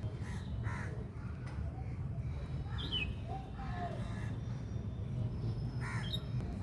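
Birds calling: a few harsh calls, about a second in and again near the end, with a small bird's short, high, falling chirps, over a steady low rumble.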